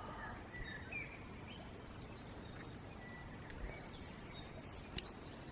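Quiet outdoor background by a creek with a few faint, short bird chirps scattered through it.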